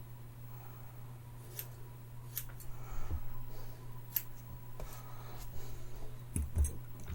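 Scissors snipping hair during a self-haircut: about five short, sharp cuts a second or two apart, over a steady low electrical hum.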